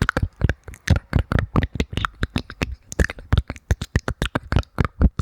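Close-miked ASMR mouth sounds: rapid wet clicks and smacks of the lips and tongue, about five or six a second.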